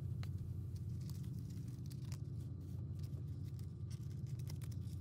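Steady low background hum with faint, scattered light clicks.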